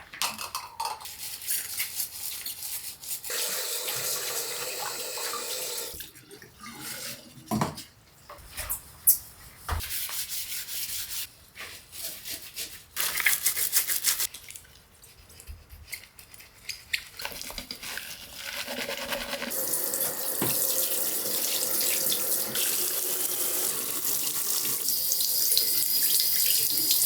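Water running from a tap into a sink, turned on and off in several long spells, with a few sharp knocks between them.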